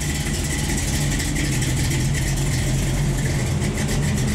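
A car engine idling steadily, with an even, unchanging exhaust note.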